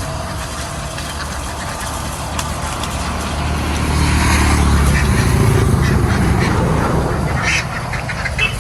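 A flock of ducks quacking over a low, steady engine drone that weakens after about five seconds, with a quick run of calls near the end.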